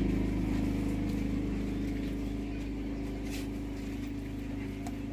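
An engine running steadily at an even pitch, slowly growing fainter.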